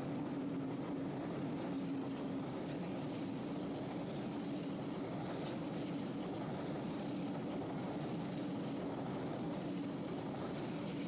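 ICE high-speed electric train passing at speed: a steady rolling rumble of wheels on rail with a steady low hum running through it.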